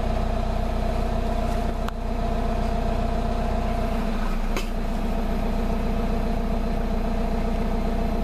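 Car engine idling steadily, heard close at the exhaust tailpipe as a low, even drone.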